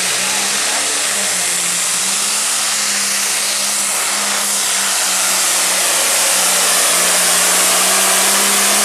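Limited pro stock pulling tractor's turbocharged diesel engine running flat out under load during a pull, a steady engine note under a loud hiss. It grows a little louder about five seconds in.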